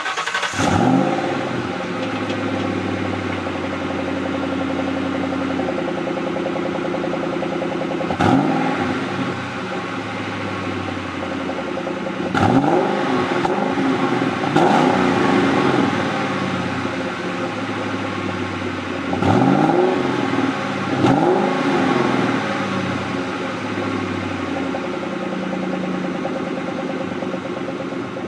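1999 Mustang SVT Cobra's 4.6-litre DOHC V8 running through its stock exhaust, idling just after a start-up and revved in five quick throttle blips, each rising and falling back to idle.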